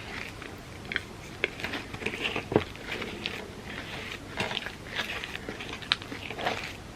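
Close-miked eating: chewing and biting into a Biscoff cookie-butter ice cream sundae, with irregular sharp mouth clicks and smacks.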